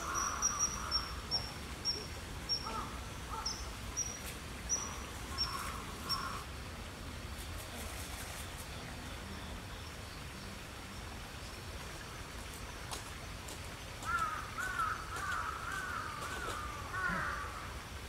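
Birds calling: a row of short, high chirps about twice a second for the first six seconds, then a quick run of harsher calls near the end.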